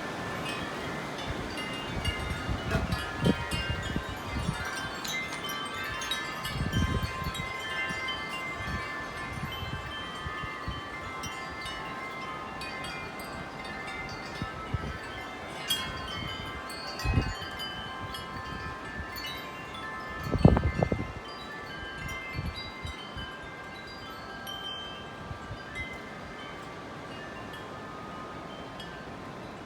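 Wind chimes ringing continuously in strong, gusty wind, many overlapping tones. Gusts buffet the microphone in low thumps, the loudest about two-thirds of the way in, and the ringing thins out toward the end.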